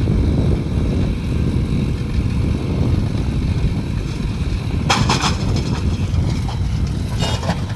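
Heavy diesel engine of earth-moving machinery running steadily with low engine noise. Two brief, harsh bursts of noise break in about five seconds in and again about seven seconds in.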